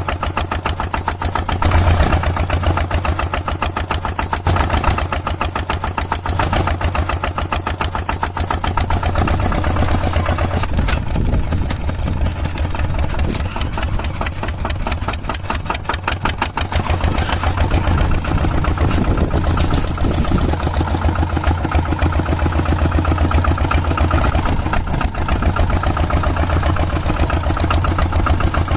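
Tractor engine running steadily with a fast, even chugging, keeping to one speed throughout.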